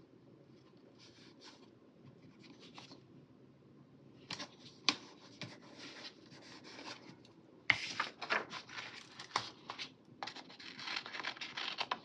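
Paper stickers and sticker-book pages being handled close by: scattered small taps and scratchy paper rustling, with a busier stretch of scratching and rustling from about eight seconds in.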